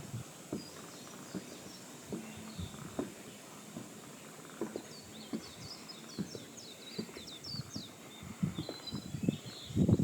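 Small birds chirping in quick high series, busiest in the middle of the stretch, over a quiet outdoor background with scattered light knocks and scuffs that grow louder near the end.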